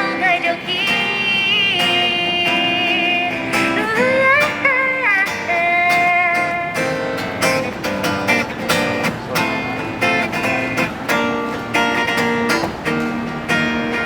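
Live song with acoustic guitar strumming and long held sung notes that bend in pitch, with no words.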